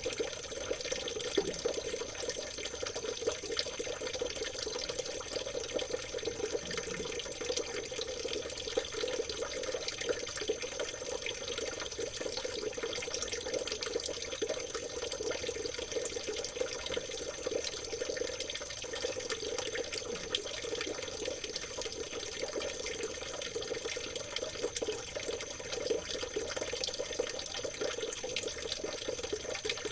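Small stream of water trickling and babbling steadily, with a thin steady high tone above it.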